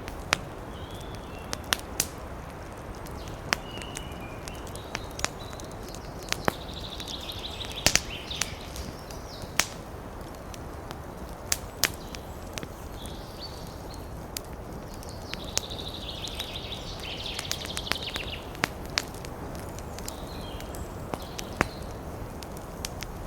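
Wood fire crackling in a fireplace: a steady low rush of flames with sharp pops every second or so. Two spells of higher hissing, a few seconds each, come about a third of the way in and again about three quarters of the way in.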